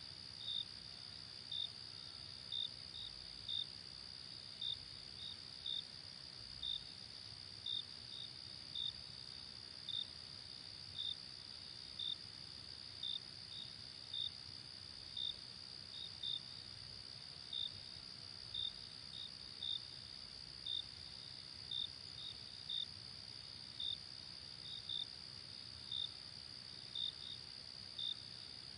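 Night insect chorus of crickets: a steady high-pitched trill with short chirps over it, a little more than one a second at uneven spacing.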